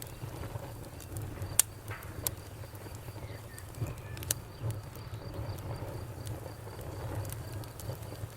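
Campfire crackling: scattered sharp pops of burning wood over a low steady rumble, the loudest pop about one and a half seconds in. A faint, even, cricket-like chirping pulses in the background.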